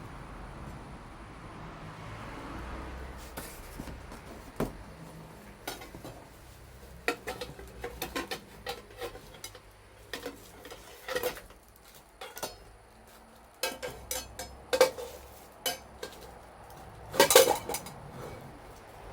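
Dishes and cutlery being handled, with irregular clinks and knocks that grow busier in the second half and peak in a loud cluster near the end.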